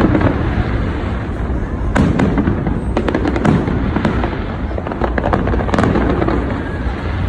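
Fireworks display going off without pause: a continuous rumble of aerial shell bursts with many sharp crackling reports, heavier bangs every second or two.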